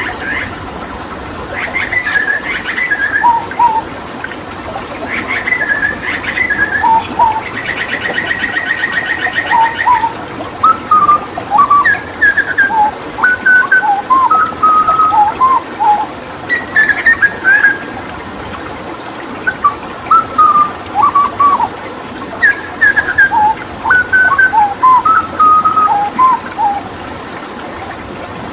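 Hooded butcherbird singing: repeated phrases of clear, fluting whistled notes that leap up and down in pitch, with a rapid buzzy trill about eight seconds in, over a steady rush of water.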